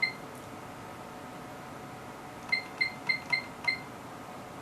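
Short, identical high-pitched key beeps from the HP 3245A universal source's front panel as a new output value is keyed in: one beep at the start, then a quick run of five about two and a half seconds in. Faint steady electronic tones run underneath.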